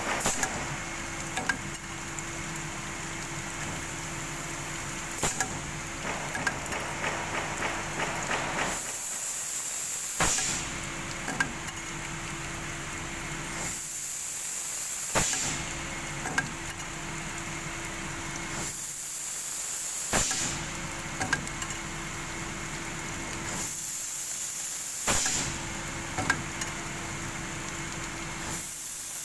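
Heat-treatment machine running in a repeating cycle about every five seconds: a spell of hiss, then a sharp knock, over a steady hum.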